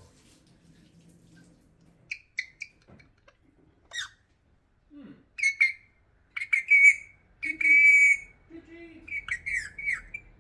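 Alexandrine parrot giving a string of short, shrill whistled calls and squawks. They begin about two seconds in, are loudest and longest a little past the middle, then trail off into quicker chirps.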